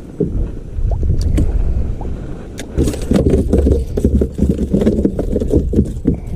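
Low rumbling with irregular knocks and a few sharp clicks, louder from about three seconds in: a freshly landed yellow perch flopping about on a kayak, its lure's treble hooks rattling.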